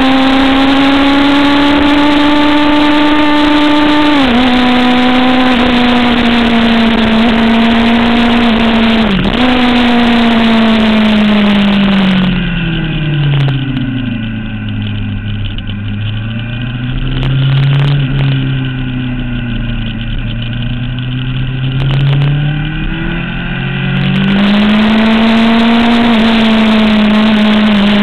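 Sport motorcycle engine at high revs under heavy wind noise on the onboard microphone, its note climbing with brief dips at gear changes about 4 and 9 seconds in. From about 12 seconds the note falls steeply and runs low and softer with the wind dying away as the bike slows for corners, then climbs again under acceleration a few seconds before the end.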